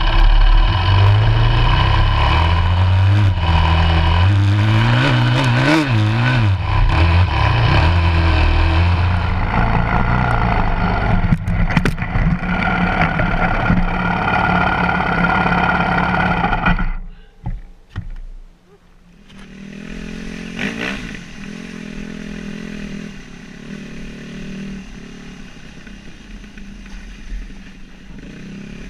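Yamaha WR250 dirt bike's single-cylinder four-stroke engine running hard, its revs rising and falling. A little past halfway it suddenly drops off, then runs on more quietly and steadily.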